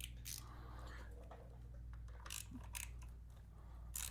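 A few sparse clicks of a ratchet and socket working a 10 mm bolt, over a steady low hum.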